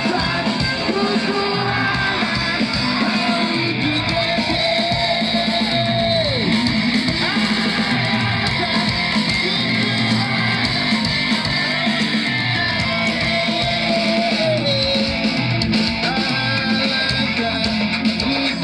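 Live band playing rock music, with guitar to the fore and gliding, sustained notes over a full, steady accompaniment.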